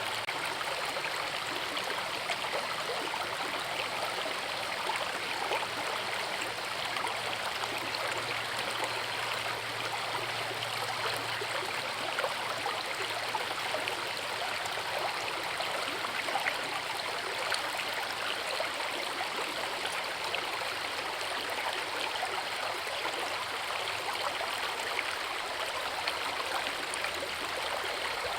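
A forest river running over a waterfall: a steady, even rush of water.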